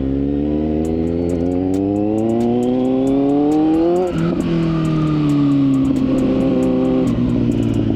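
Kawasaki Z900 inline-four motorcycle engine accelerating, its pitch climbing steadily for about four seconds. The pitch then drops sharply at an upshift, and the engine holds a steadier pitch before easing off near the end.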